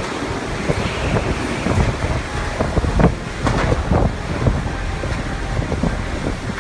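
Storm wind buffeting the microphone in loud, irregular gusts, with rushing water and waves beneath.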